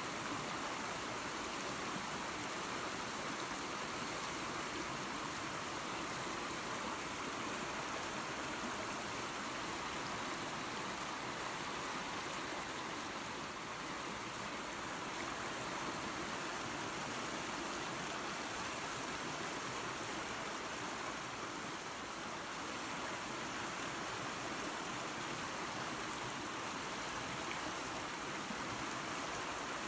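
Small waterfall and creek: water running and splashing over rocks in a steady rush.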